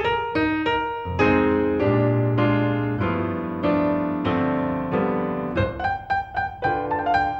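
Solo piano accompaniment for a silent film: quick notes, then a few held chords in the middle, then quicker notes again near the end.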